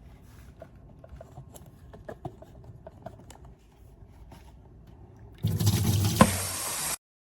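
Fully automatic espresso machine: faint ticks and drips, then about five and a half seconds in a loud rushing, hissing run of liquid with one sharp click, which cuts off suddenly.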